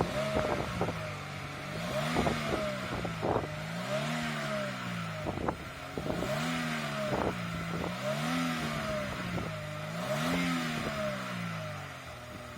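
Kia Ceed's 1.6-litre engine running during hydrogen carbon cleaning, its speed rising and falling about every two seconds, five times over, with scattered sharp clicks.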